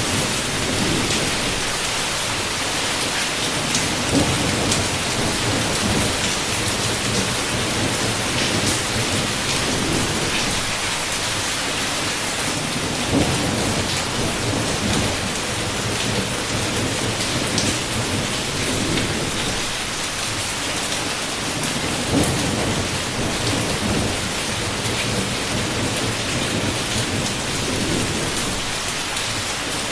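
Heavy rain falling steadily, with low thunder rumbling now and then.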